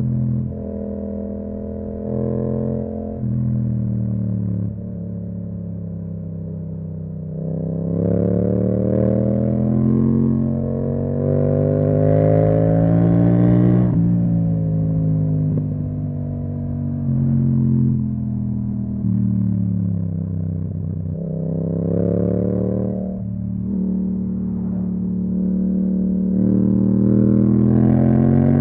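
Yamaha MT-07's 689 cc parallel-twin engine through an Akrapovič exhaust, under way: it holds a steady note for several seconds, then climbs in pitch as it accelerates, drops off as the throttle closes, and rises again twice more near the end.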